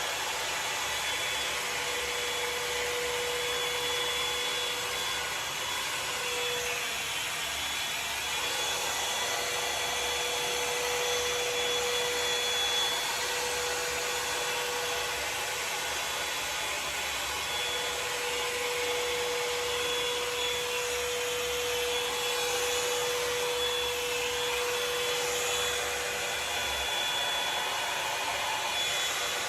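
Revlon One-Step hair dryer brush running steadily, a hiss of blown air with a motor whine that drops out briefly a couple of times.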